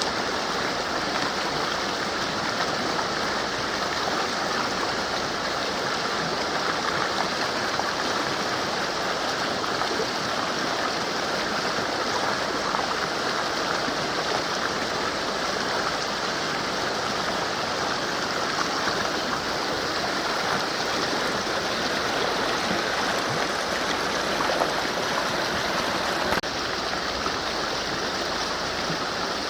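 A mountain river flowing: a steady, even rush of running water.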